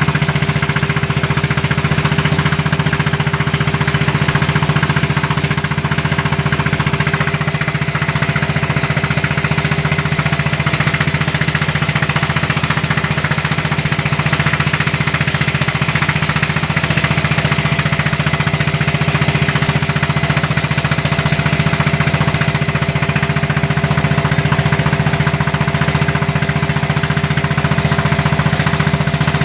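Kapal klotok's single-cylinder diesel engine running loudly and steadily, a rapid, even knocking that never changes pace.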